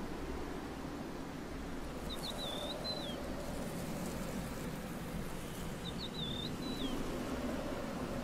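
A small bird calling twice, each time a short high phrase of a few chirps, over a steady low background hum.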